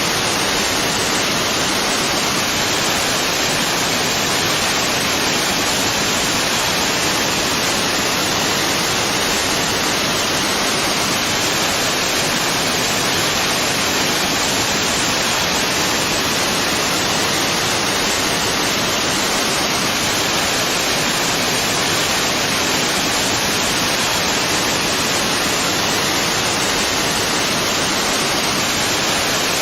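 Waterfall: water falling and rushing in a steady, dense roar of noise that does not change.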